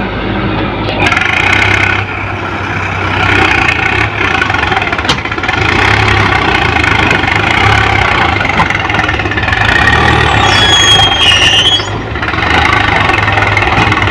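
Sonalika DI tractor's diesel engine running while pulling a loaded trolley, its level rising and falling a little. A brief high tone sounds about two-thirds of the way through.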